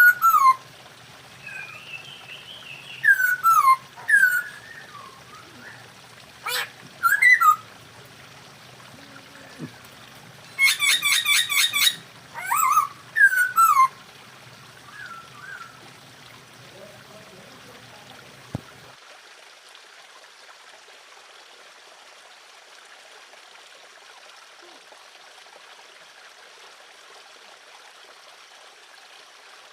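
Masked laughingthrush (poksay hongkong) calling: short, loud, descending whistled notes, and a fast run of rapid repeated notes about eleven seconds in. The calls stop about halfway through, leaving only a steady hiss.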